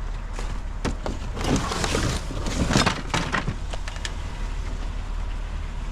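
Scrap metal clattering and scraping as a small child's bicycle is shifted and pushed into a van load of scrap, with a run of knocks loudest about three seconds in, over a steady low hum.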